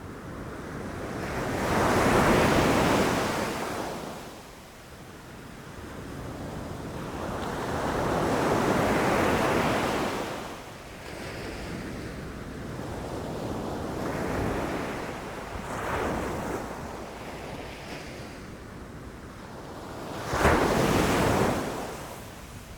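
Ocean surf breaking on a beach, wave after wave rising and falling every few seconds, the sharpest and loudest crash near the end.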